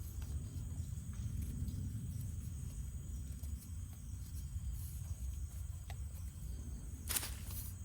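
Insects, crickets by their sound, chirring steadily at a high pitch over a low rumble. A short, sharp rasping noise comes near the end.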